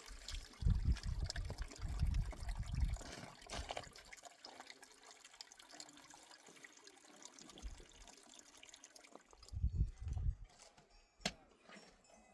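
Water trickling and splashing, as a hiss that thins out about nine seconds in. Heavy low rumbles come through in the first few seconds and again near the end, with one sharp click.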